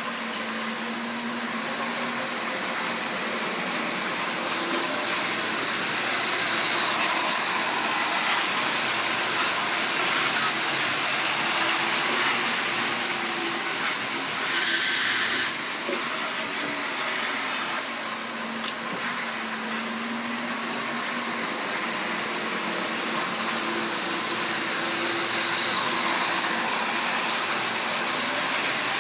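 Model railway train running on the track: the steady whirr of the locomotive's electric motor and the rattle of wheels on the rails, swelling and fading as it goes round. A brief hiss about halfway through.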